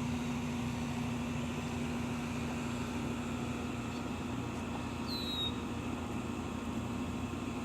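Steady low mechanical hum with a constant drone throughout, and one short high chirp falling in pitch from a small bird about five seconds in.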